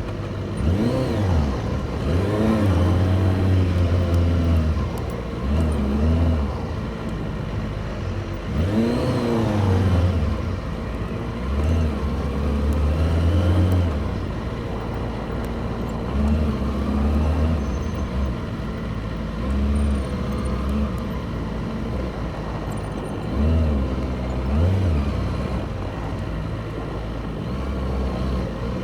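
Motorcycle engines revving up and down again and again in short throttle blips, with low-pitched running between the blips.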